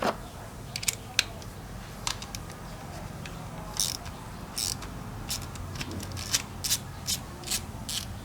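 Sharp metal-on-metal clicks and ticks from hand tools working on a Honda Wave 125 motorcycle cylinder head as the camshaft and rocker-arm parts are taken out. The clicks come irregularly, growing to about two a second in the second half.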